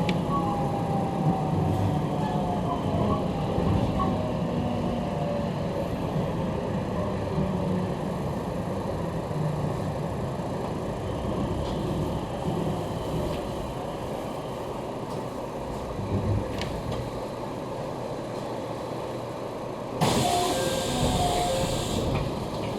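Electric commuter train running and slowing, with the whine of its motors falling in pitch over the rumble of the wheels. About twenty seconds in comes a burst of air hiss lasting about two seconds.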